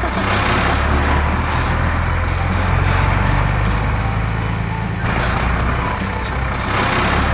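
Heavy truck engine sound effect running steadily, a low rumble under a rushing noise that swells again about five seconds in.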